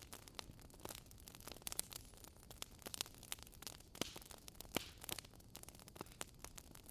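Wood logs burning in a fireplace, crackling with irregular sharp pops over a faint hiss. A few louder pops land around the middle.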